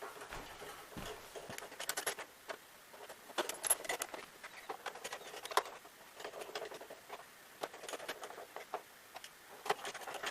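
Screws being driven with a screwdriver into the plastic brush-roll cover on the underside of a Hoover WindTunnel MAX upright vacuum, with scattered small clicks and light rattles of metal and plastic.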